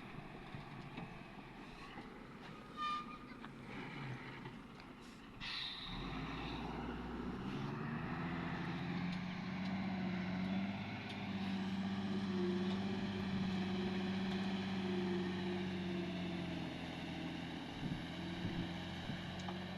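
Heavy diesel engine running, then revving up about seven seconds in and holding at high revs under load, with a few short knocks before the rise.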